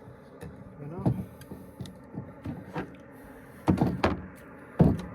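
A few sharp knocks and clunks of cooking gear being handled at a truck's tailgate, the loudest near the end, over a low steady hum.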